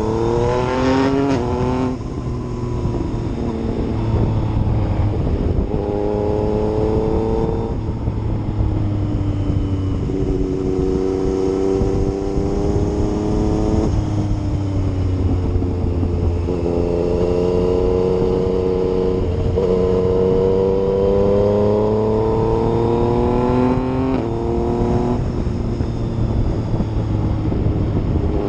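Yamaha MT-09's three-cylinder engine under way, its pitch climbing as it revs up and then dropping back at each gear change or roll-off, several times over.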